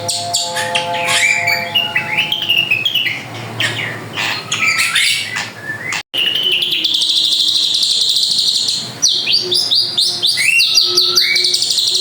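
Drongo singing a loud, busy song of rapid trills, chirps and sweeping whistles, with one brief break in the sound about halfway through.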